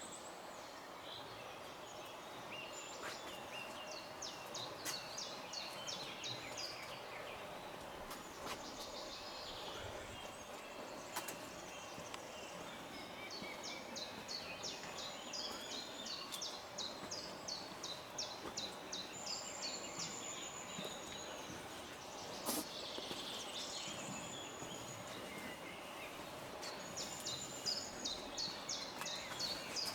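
A songbird singing repeated rapid trilled phrases, several in a row, over steady background noise.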